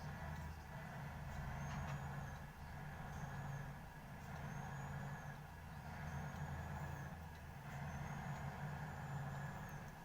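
Car interior while driving: a steady low engine and road drone, with a faint high squeak that repeats about every one and a half seconds.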